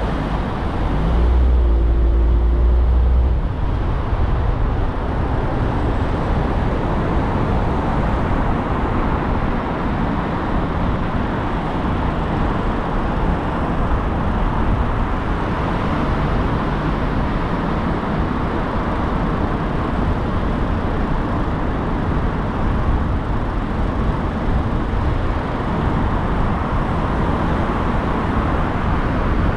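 Steady road noise of a car driving in traffic: tyre and engine rumble, with a louder low rumble for about two seconds near the start.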